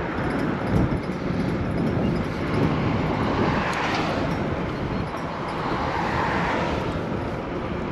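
Steady road noise from riding an electric bike: wind on the microphone and tyre rumble, with a louder whoosh that swells and fades twice.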